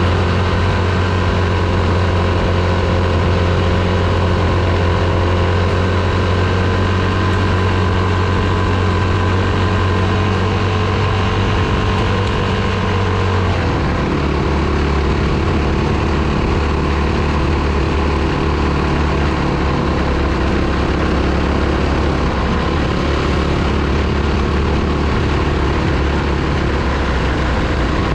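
Dirt bike engine running at fairly steady revs, its note dropping to a lower steady pitch about halfway through.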